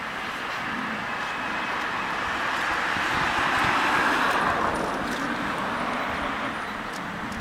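211 series electric train running past on the rails: the wheel and rail noise swells to a peak about four seconds in, then eases off.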